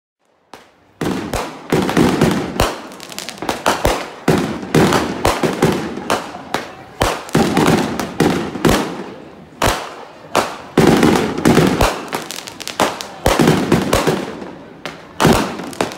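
Many fireworks going off all around, with aerial shells bursting among them. A rapid, near-continuous run of overlapping bangs and crackles starts about a second in, with hardly a pause.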